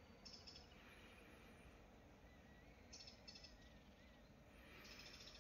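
Near silence with faint bird chirps: three short clusters of high chirps, and a faint wavering whistle in the middle.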